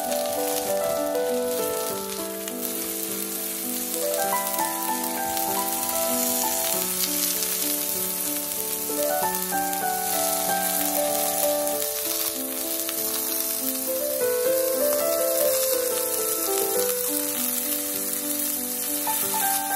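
Sliced button mushrooms sizzling steadily in hot oil in a frying pan, with background music playing a stepping melody over it.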